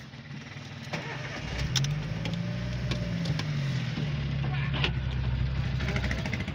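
Volkswagen car's engine heard from inside the cabin as the car pulls away: the engine note comes up about a second and a half in, rises briefly and falls back, then runs steadily.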